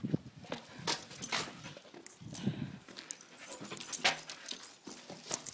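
Pitbull puppy panting, with scattered sharp clicks and taps.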